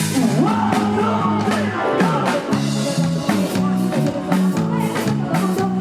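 Live Isan roadshow band music with a steady drum beat and bass line, and a melody line bending up and down over it.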